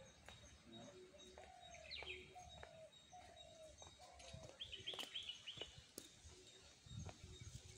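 Faint bird calls: four drawn-out, slightly falling notes about a second apart, then a quick run of high chirps around five seconds in.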